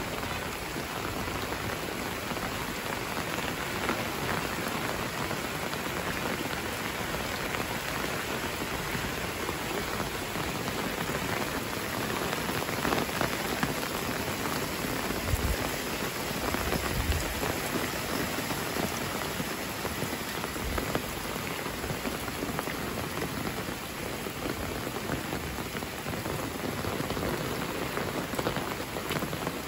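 Steady rain pouring down on a village lane and the surrounding plants, an even hiss of many drops. A few dull low thumps come around the middle.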